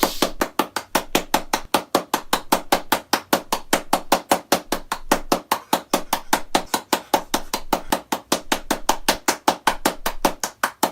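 Rapid, even knocking, about five to six sharp strikes a second, keeping a steady rhythm throughout.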